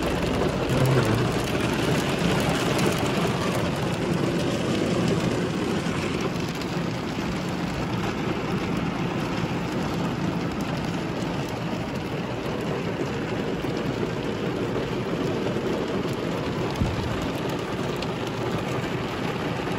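Heavy rain pelting a car's roof and windshield, heard from inside the cabin as a steady, dense hiss and patter.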